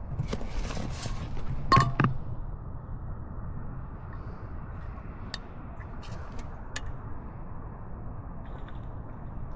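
Water bottle being handled for a drink: a few sharp clicks and knocks in the first two seconds, the loudest about two seconds in. After that only a low steady rumble with a few faint ticks.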